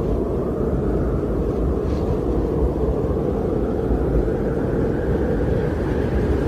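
Strong winter wind blowing steadily, with a deep rumble and slow swells.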